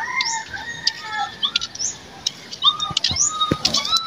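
Birds chirping and calling in many short rising and falling notes, with a few knocks near the end.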